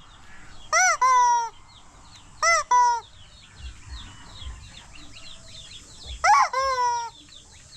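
Rubber chicken toy squeezed three times, each squeeze giving a loud high-pitched squeal in two parts: a short rising-and-falling note, then a longer drawn-out falling note. Faint quick high chirps run underneath.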